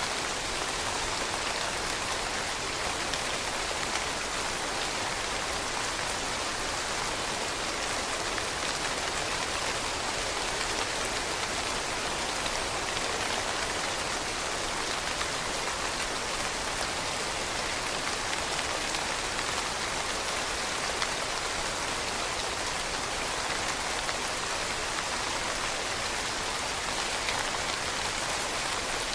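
Steady rain falling on leaves: a dense, even patter of many small drops.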